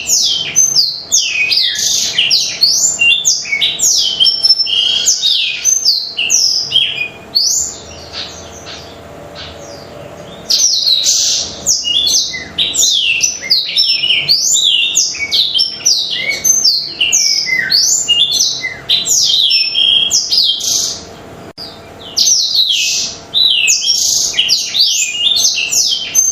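Black-throated canary (blackthroat) singing a fast, continuous chatter of short, high notes sweeping up and down. The song breaks off twice: for a few seconds about a third of the way in, and briefly near the end.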